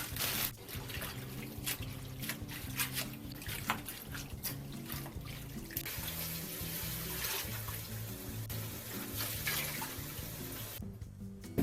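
Kitchen tap running into a sink, with small knocks and clatter of things being handled under the water, over background music. The running water stops near the end.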